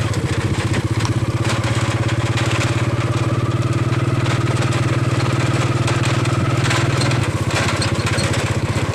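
Small motorcycle engine running steadily at low revs, its note changing about seven seconds in.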